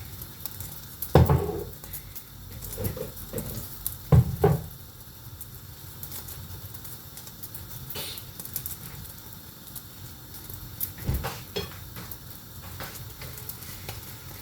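Food sizzling in a hot frying pan, with a few short knocks of cookware against the pan, the loudest about a second in and about four seconds in.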